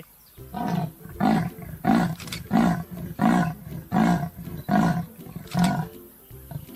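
Leopard giving its sawing call: about eight rasping grunts in a steady rhythm, roughly one every three-quarters of a second, like a saw drawn back and forth.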